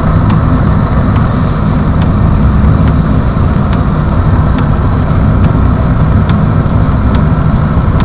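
Steady road and engine noise heard inside a car's cabin while driving on snow-covered roads.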